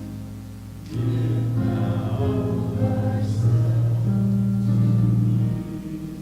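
Church congregation singing a hymn; the last phrase ends on a long held note about five and a half seconds in.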